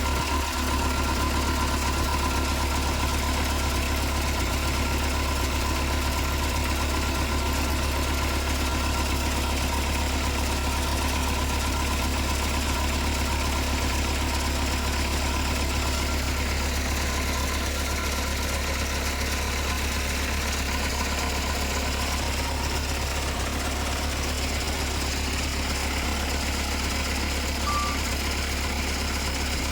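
Heavy diesel engine of earthmoving machinery running steadily, a constant low drone with a few steady higher tones.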